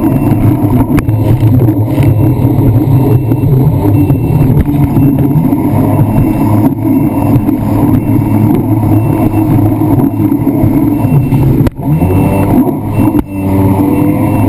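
Jet ski engine running under way, loud and steady. About twelve seconds in, its pitch briefly dips and climbs again.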